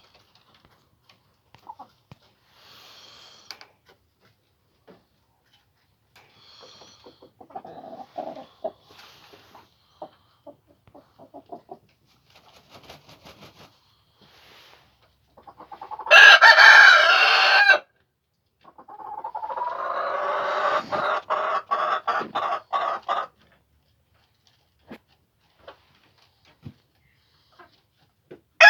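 Leghorn chickens clucking softly, then a loud call lasting under two seconds just past the middle, followed by a run of rapid clucks, about five a second, for some four seconds.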